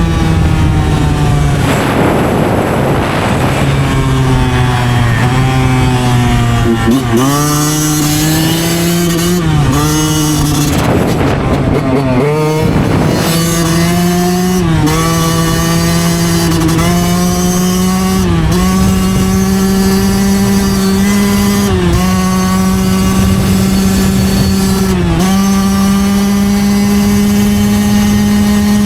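Yamaha YZ125 two-stroke single-cylinder dirt bike engine being ridden, its note held mostly steady and high with short dips and recoveries in pitch every few seconds. Twice a rushing noise swells over it, about two seconds in and again around the middle.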